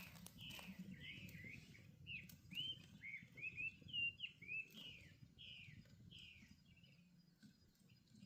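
A bird singing a run of about fourteen quick chirps, many of them sliding down in pitch, over a faint low rustle. The chirps stop about six seconds in.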